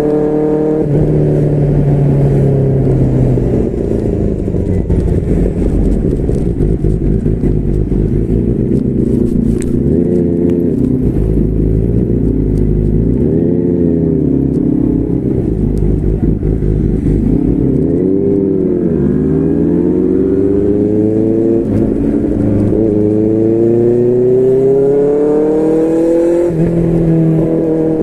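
QJMotor SRK600's inline-four engine through a Yoshimura R11 exhaust under way. The revs rise and fall repeatedly with gear changes, with several quick ups and downs in the middle. Near the end comes a long steady climb in one gear, then the pitch drops suddenly at an upshift.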